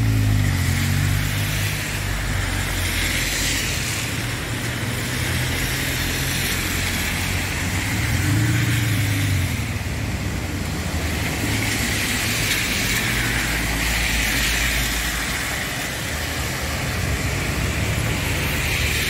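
Steady rain hiss with cars passing on a wet road: the hiss of tyres on wet pavement swells and fades several times, and engines are heard near the start and again about eight seconds in.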